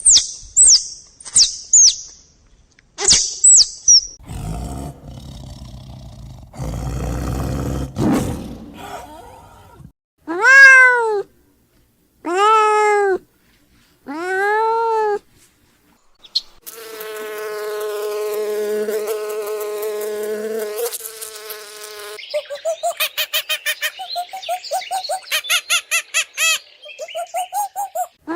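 A run of different animal calls, one after another: short high chirps, then a rough low growling stretch, then three separate rising-and-falling meow-like calls, then one long held call, and finally a fast series of pulsing calls.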